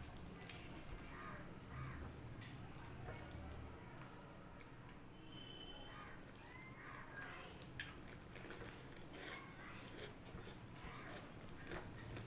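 Faint eating sounds: soft wet clicks and smacks of chewing, and of rice and dal being mixed by hand, scattered irregularly.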